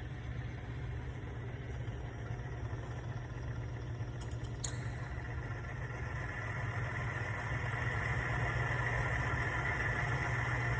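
Timken oil-test machine running: a steady motor hum with its rotating ring rubbing on the steel test block, a click about four and a half seconds in, then a high squeal that grows louder over the second half. The squeal is the resistance of the ring against the block under load.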